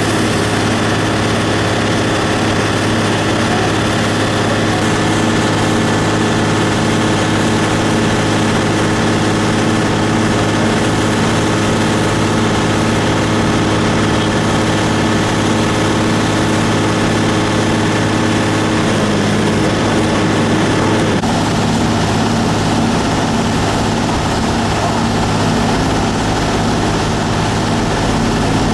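A steady engine drone holding one pitch, which shifts slightly about two-thirds of the way through.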